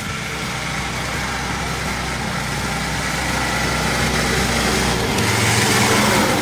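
Kenworth logging truck's diesel engine running as the truck drives, growing steadily louder. About five seconds in, the deep hum drops away and a higher rumble and hiss come up.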